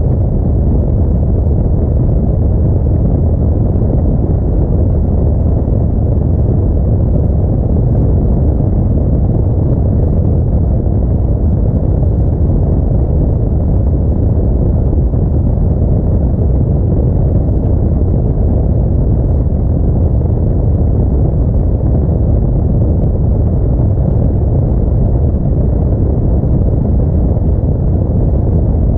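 Audi A4 driving: a steady, loud low rumble of engine and road noise.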